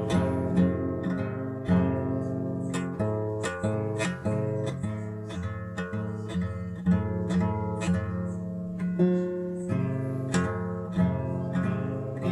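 Acoustic guitar being played, with plucked and strummed chords ringing out in a steady rhythm of several attacks a second.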